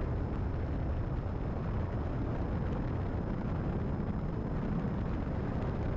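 Steady drone of a Cessna 172RG's engine and propeller at reduced approach power, heard inside the cockpit together with airflow noise.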